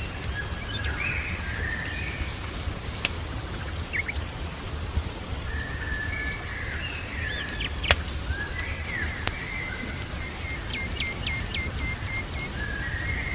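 Small birds singing and chirping, with a quick run of about six short notes near the end, over a steady low rumble and scattered sharp crackles and pops of a fireplace fire, one louder pop about two-thirds of the way through.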